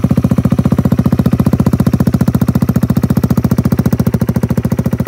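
2017 Kawasaki Z125 PRO's single-cylinder engine idling steadily through an M4 full exhaust system with a Q3 Stage 2 quiet insert: an even, rapid putter of about a dozen exhaust pulses a second.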